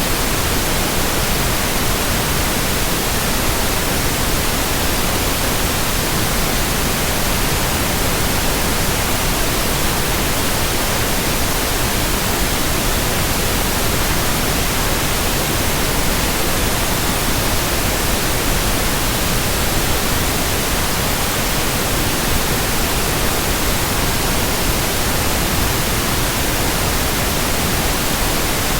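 Steady white-noise hiss, even across high and low pitches, with no rhythm, swish or change.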